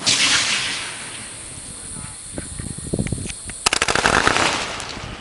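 Aerial fireworks: a sharp bang at the start, then a dense crackling hiss that fades over about a second and a half. Scattered pops follow, and about three and a half seconds in comes a rapid run of sharp cracks with more crackling.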